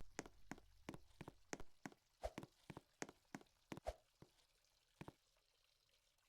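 Ceiling fan ticking in a steady rhythm, about three clicks a second, the clicks spacing out and stopping about five seconds in as it slows, while a low motor hum fades away.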